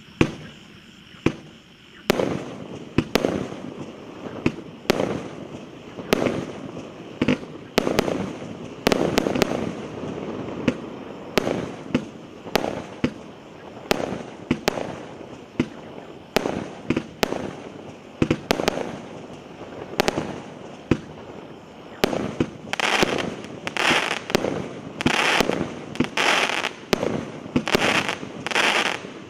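A 100-shot, 1.25-inch fireworks cake firing: sharp shots and star bursts, about one to two a second, over a steady hiss. Near the end the shots come closer together, each followed by a short burst of crackling.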